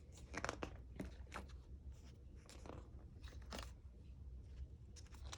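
Faint paper rustling and small clicks, a picture book being handled and its page turned.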